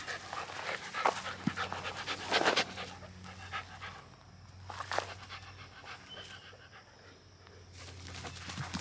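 Mini Australian Shepherd panting in quick, rhythmic breaths, busiest in the first three seconds, with a louder burst of noise about two and a half seconds in, then quieter.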